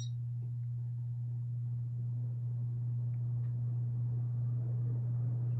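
1993 Casablanca Victorian ceiling fan's motor running at a steady speed with a constant low hum.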